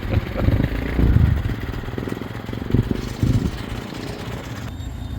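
Motorcycle engine running close by, with a few short throttle blips. It runs smoothly, likened to a Swiss watch.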